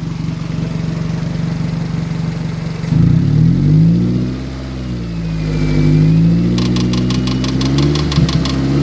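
A car engine idles steadily. About three seconds in, the Mazda Protege's engine is cranked with its throttle opened, its pitch swaying up and down for several seconds without catching, and it stops near the end. A rapid run of clicks comes part way through.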